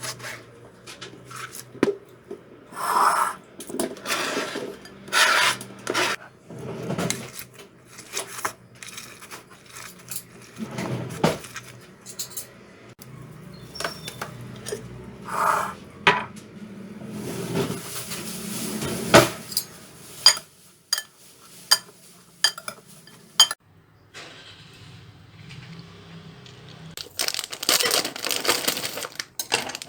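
Kitchen handling sounds: dishes and utensils clinking, knocking and scraping in irregular bursts, with a stretch of dense rustling near the end.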